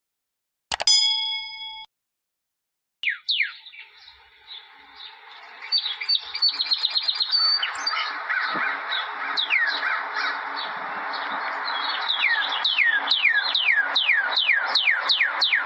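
A single bell-like ding about a second in, ringing for about a second. After a short silence, birds start chirping and build into a dense chorus of many birds, with rapid trills and repeated downward-sweeping calls, about three a second near the end.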